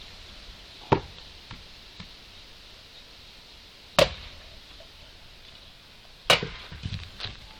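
An axe chopping wood: three sharp strikes about three seconds apart, the last followed by a few lighter knocks.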